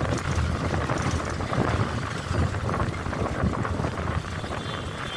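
Bus travelling on a road, heard from inside: a steady low rumble of engine and road noise.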